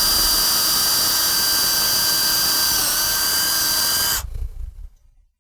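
Electric drill with a number 22 bit boring through a nozzle's bail handle and into its stainless steel trunnion: a steady high whine that dips briefly near three seconds and stops about four seconds in, then a short low rumble as it winds down.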